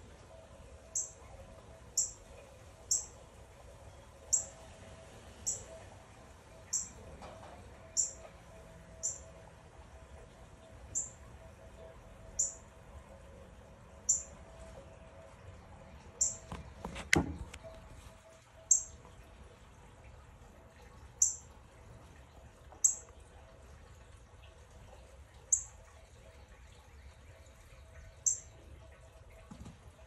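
A small bird giving short, sharp, high-pitched chirps, one every second or two, with a single sharp knock about seventeen seconds in.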